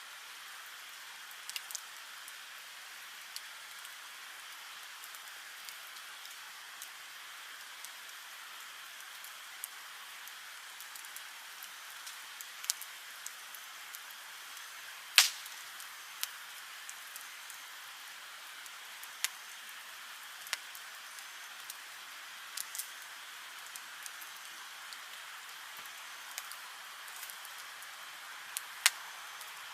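Wood fire burning: a steady hiss with scattered sharp crackles and pops, and one loud pop about halfway through.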